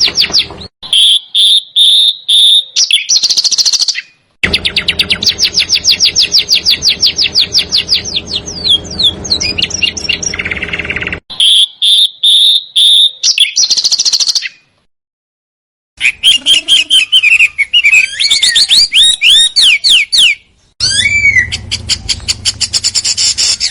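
Songbird song played from an edited tutor recording: rapid, tight trills and fast runs of sharp repeated high notes. The phrases are spliced together and cut off abruptly, with short silent gaps between clips.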